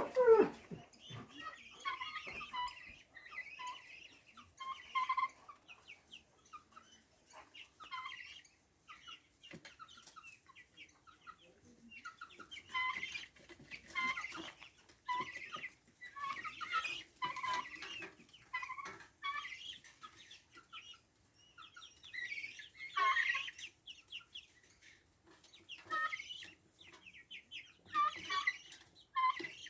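Farmyard fowl calling in repeated short bursts of clucks and chatter, with the loudest calls about two-thirds of the way in and again near the end.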